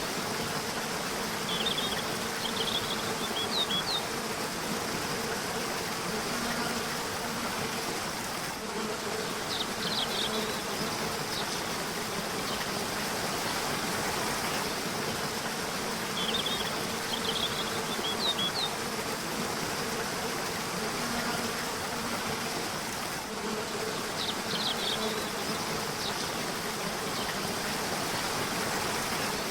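River water flowing steadily, with short bursts of high bird chirps that come back about every seven to eight seconds, and a faint low hum underneath.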